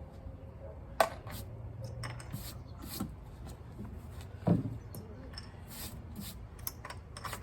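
Handling noise on a composite deck board: rubbing and scattered light knocks, with sharper knocks about a second in and near the middle.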